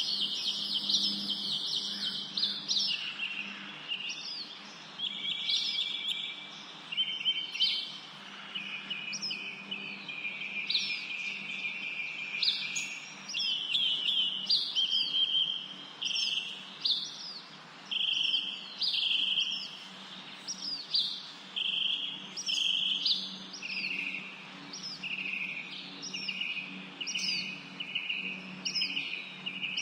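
Songbirds chirping and trilling continuously: quick upswept chirps and short buzzy trills about once a second, with a faint steady low hum underneath.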